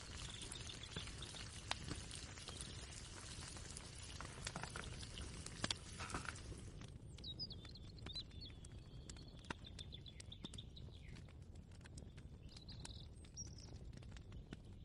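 Faint kitchen ambience. A steady hiss with soft crackles stops suddenly about halfway through, leaving a low rumble, scattered small clicks and a bird chirping several times in the background.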